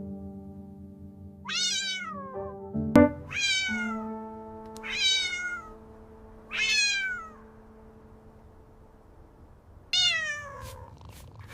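A cat meowing five times, each meow short with a falling pitch, over soft held background music notes. There is a sharp click about three seconds in.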